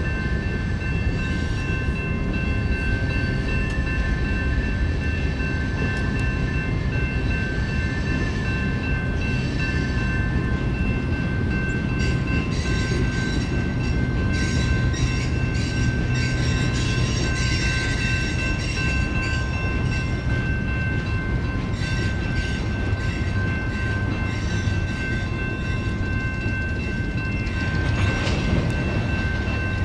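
CSX train rolling past with a steady low rumble, several steady high-pitched tones held throughout, and a rapid clatter of wheels over the rails through the middle stretch.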